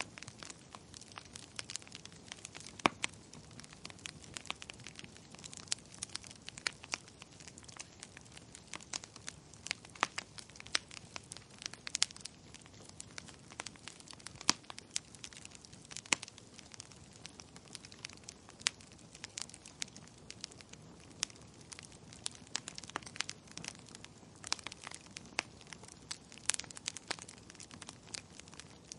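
Wood fire crackling in a fireplace: irregular sharp pops and snaps, a few of them louder, over a soft steady hiss.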